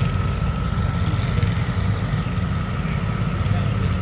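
An engine idling steadily: a low rumble with a thin steady whine above it.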